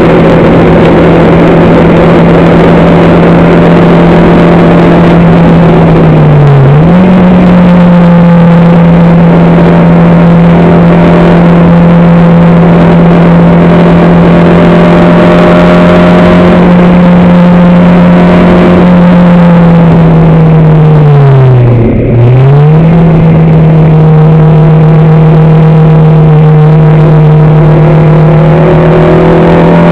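Racing engine heard on board at full power, very loud, holding a steady high note. The revs dip briefly about six seconds in, and dip sharply again about twenty-two seconds in as the throttle is lifted, before climbing back to the same steady pitch.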